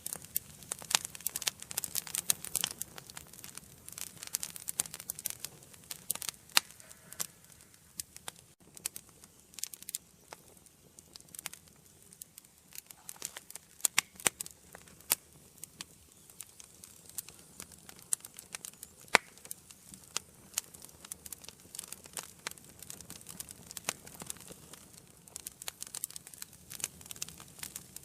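Wood fire burning in an indoor fireplace: a steady stream of irregular crackles and sharp pops from the burning logs over a faint hiss, with a few louder pops now and then.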